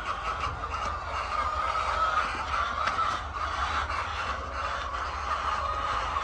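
A flock of laying hens clucking and calling all at once, many overlapping calls keeping up a steady din, over a low steady hum.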